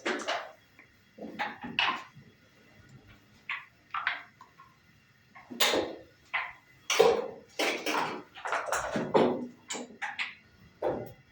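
Backgammon pieces and dice clacking on the board: a run of irregular sharp clicks and clatters, some in quick clusters, as the players roll and move checkers.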